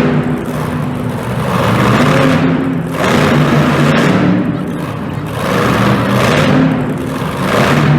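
Monster truck engine revving in repeated surges, rising and falling about every couple of seconds.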